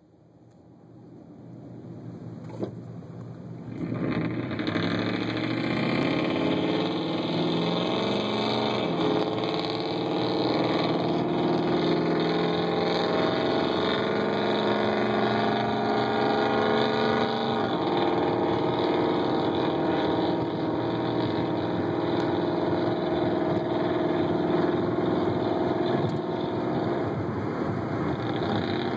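Straight-piped 5.4-litre V8 of a 2001 Ford F-150 on true dual exhaust with no catalytic converters or mufflers, running loud and heard from inside another car with its windows up. It grows louder over the first four seconds, then holds steady as the engine pitch rises and falls while it drives.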